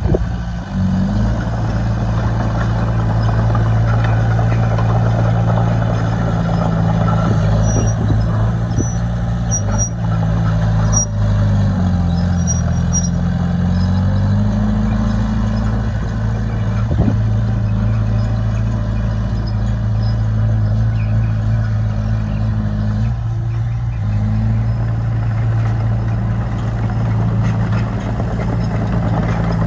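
Bulldozer's diesel engine running steadily at working revs. The pitch sags briefly about twelve seconds in and picks back up, with faint high squeaks mixed in.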